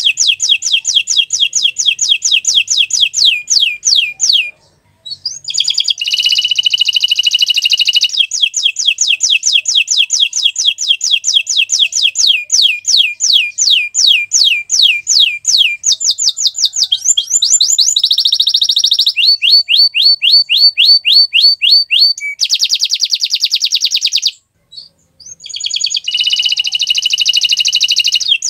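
Domestic canary singing a long song of fast trills: rapid runs of repeated sweeping notes, switching from one trill type to the next every few seconds. Short breaks come about four seconds in and again a few seconds before the end.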